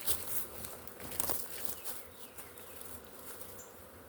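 Honey bee swarm buzzing: a steady hum of many bees in flight, with a few brief louder sounds in the first second and a half.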